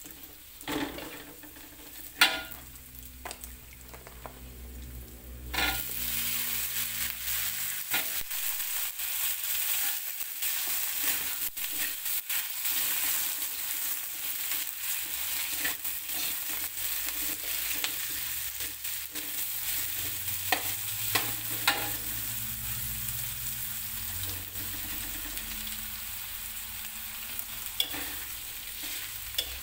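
Spice paste, then eggplant and tofu, frying and sizzling in a wok while a spatula scrapes and knocks against the pan. The sizzle is quieter at first and becomes much louder about five seconds in, staying loud, with frequent spatula clicks throughout.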